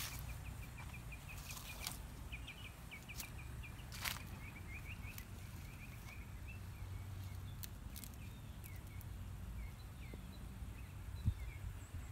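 A small bird chirping in quick runs of short, falling notes that thin out to scattered chirps in the second half, over a low rumble, with a few light clicks.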